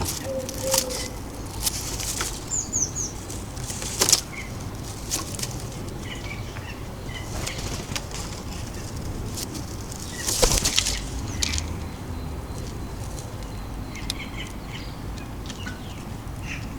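Birds' wings flapping in short flurries at a garden bird feeder, with sharp taps and a few faint high chirps. The loudest flurry comes about ten seconds in. A low steady rumble lies underneath.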